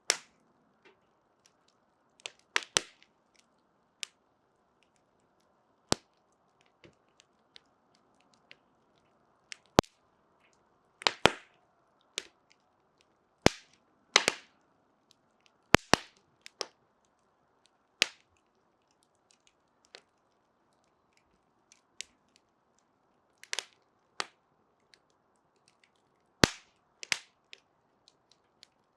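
Fire crackling: sharp, irregular pops a second or a few seconds apart, some coming in quick twos and threes, over a faint steady hiss of flame.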